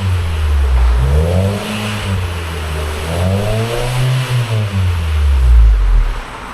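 Mitsubishi Lancer EX 1.8's four-cylinder engine free-revved through a full aftermarket exhaust system: the revs rise and fall twice, then drop back near the end.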